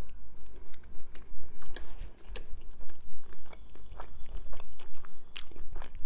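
Close-miked chewing of a mouthful of shawarma wrap: a steady, irregular run of short mouth clicks and smacks, several a second.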